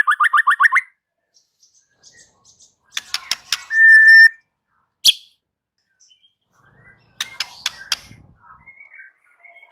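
White-rumped shama singing: a fast run of rising whistled notes, then after a pause bursts of sharp clicking notes with a short held whistle, a single sharp note, and another burst of clicking notes near the end.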